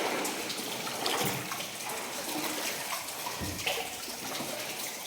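Wellington boots wading through knee-deep water, sloshing and splashing with each step, with heavier surges about a second in and again past the middle.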